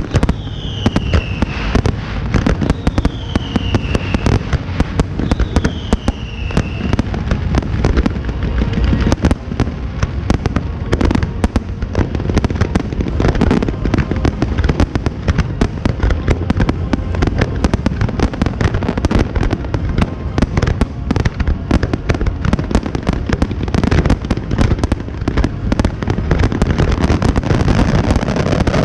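Fireworks display: a dense, continuous barrage of bangs and crackling shells. Three falling whistles sound in the first seven seconds.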